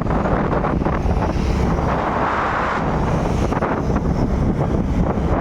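Wind buffeting the microphone of a moving motorcycle, over steady engine and road noise, with a brief swell of hiss around the middle.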